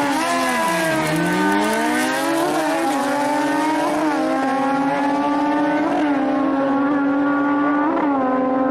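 A motor vehicle engine running at high revs, its pitch dipping and climbing back in the first second, then holding steady with short upward blips about every two seconds.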